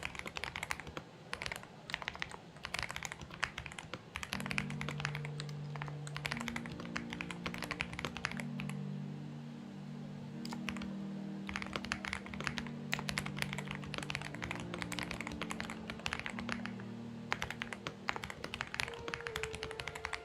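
Typing on a Xinmeng X98 mechanical keyboard: quick runs of key clicks with short pauses between them. From about four seconds in, background music with held low notes plays under the typing.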